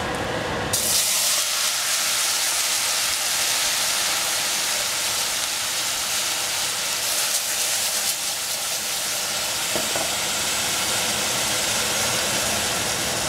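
Chopped tomatoes hitting hot oil in a stainless steel saucepan, setting off a loud, steady sizzle that starts suddenly about a second in.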